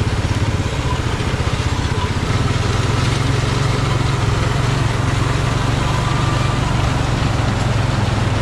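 Tractor engine running steadily, its low drone growing a little louder about two seconds in.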